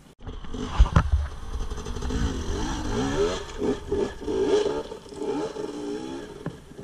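Enduro dirt bike engines revving in repeated bursts, the pitch rising and falling as the bikes are worked up a rocky climb, with a heavy knock about a second in.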